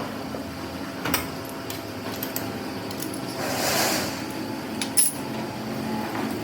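A few light metallic clinks and handling knocks, with a noisy scrape or rustle in the middle, over a faint steady hum.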